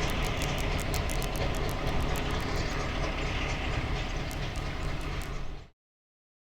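Railway train running on the track: a steady rumble with sharp clicking from the wheels. It cuts off abruptly a little before the end.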